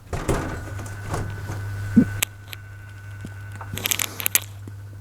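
Rexel LV250HS laminator switched on, its motor and rollers running with a steady low mains hum, with scattered clicks and a short crackling patch near the end. No binding can be heard now that the jammed pouch has been cleared.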